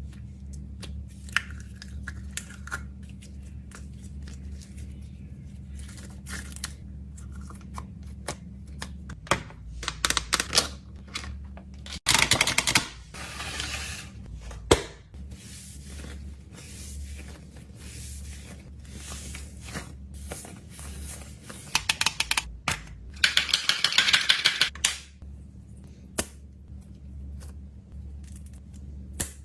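Fidget toys and plastic packaging being handled and packed: scattered taps and clicks, with two loud stretches of rapid clicking and rustling, about twelve seconds in and again around twenty-three seconds. A steady low hum runs underneath.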